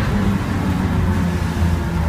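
BMW E36 328i race car's straight-six engine heard from inside the cabin, off the throttle as the car brakes hard for a corner, over road and wind noise.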